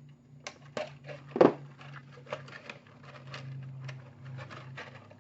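Handling of plastic model-kit packaging: light rustles and clicks, with one louder knock about a second and a half in, over a steady low hum.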